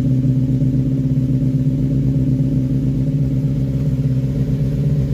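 Freshly rebuilt 1311cc A-series four-cylinder engine running steadily on choke at an even speed, warming up after its first start.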